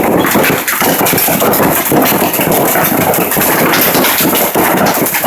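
Heavy hail pounding down: a loud, dense, unbroken clatter of countless stone impacts.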